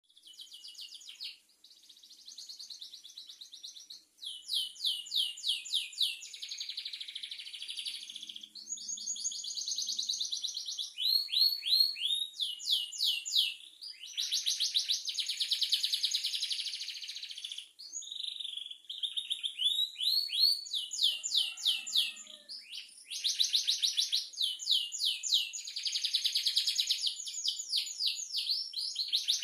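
Domestic canary singing continuously in a rolling song: long phrases of rapid repeated notes and trills, each lasting a few seconds, separated by brief pauses.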